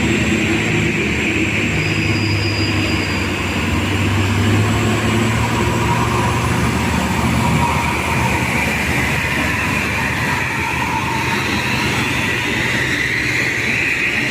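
Heavy diesel truck engine labouring up a steep climb: a steady low engine drone, strongest in the first half, with a higher rushing noise growing near the end.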